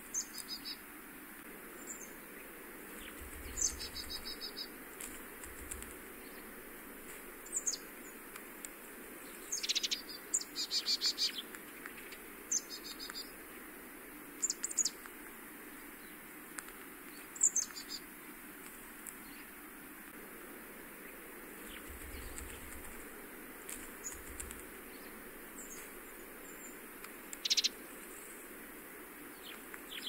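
Wild birds giving short, high chirps scattered through, about a dozen in all, with two brief buzzy trills about four and eleven seconds in.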